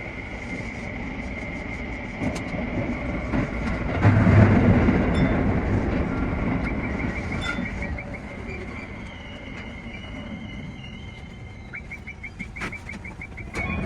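Tsukuba Express TX-3000 series electric train running on the rails. The rumble swells about four seconds in and then eases off, over a steady high tone, with a run of rapid ticks near the end.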